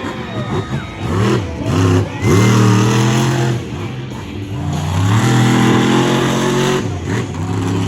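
Monster truck engine revving hard, its pitch rising and falling several times in quick succession, then held high for a couple of seconds near the end.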